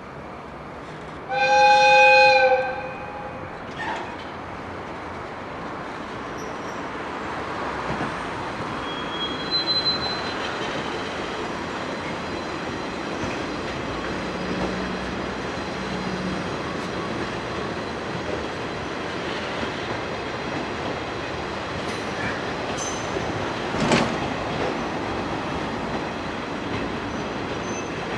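A train horn sounds once, loudly, for about a second and a half near the start. Then a train of an ND552 diesel locomotive hauling KiHa 40-series diesel railcars passes with a steady rumble of wheels on rail, with one sharp clack near the end.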